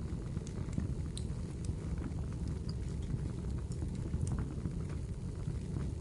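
Firewood crackling in a fireplace: a steady low rumble of burning with scattered sharp pops and snaps, several a second.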